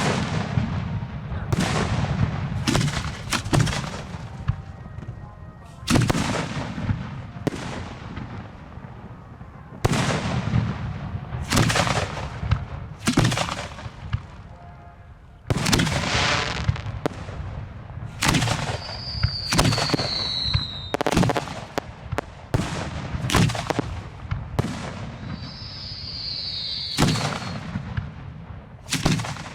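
Aerial fireworks going off in quick succession from close by: a long irregular string of sharp bangs, each dying away, with two high falling whistles among them.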